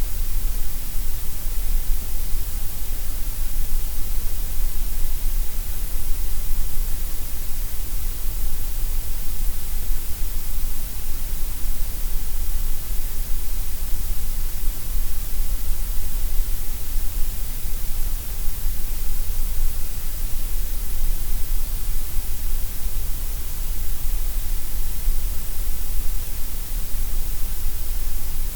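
Steady, unchanging synthetic gray noise: an even hiss spread across the whole range, with no events or changes.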